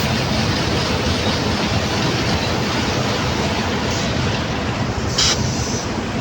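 Asphalt mixing plant machinery running with a loud, steady rumble and roar, and a brief burst of hiss about five seconds in.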